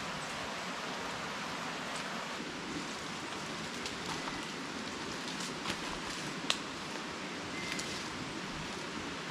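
Steady hiss of running water, stream or rain, with a few light clicks and taps over it; the sharpest click comes a little past the middle.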